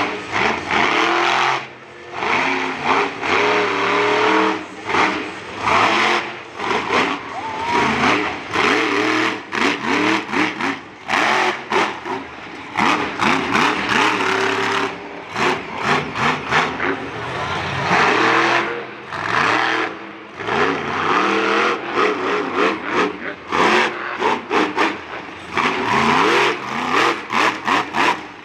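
Monster truck engine revving hard again and again, its pitch climbing and falling repeatedly, with frequent sudden cut-offs between blips of throttle.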